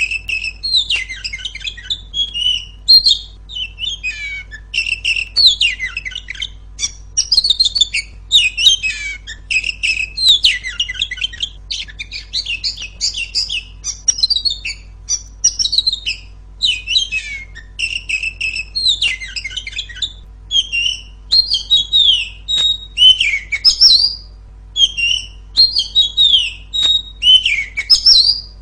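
Female oriental magpie-robin (kacer) singing a loud, ringing, continuous run of varied chirps and whistled notes, in quick phrases with short gaps. A faint steady low hum runs underneath.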